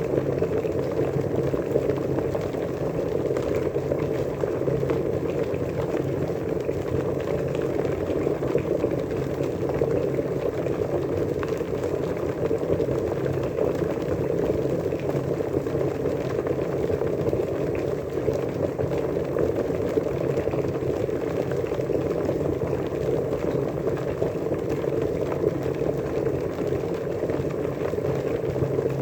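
Water at a rolling boil, bubbling steadily and evenly, with a faint low hum underneath.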